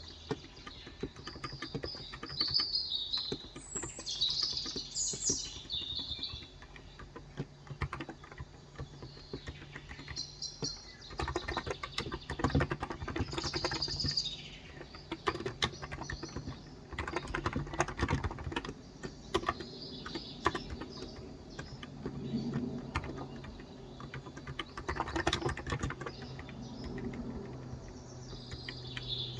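Continuous typing on a Cox Endeavour electro-capacitive (contactless) 35 g tenkeyless keyboard, a rapid run of keystrokes with pauses. Birds chirp in several short spells over it.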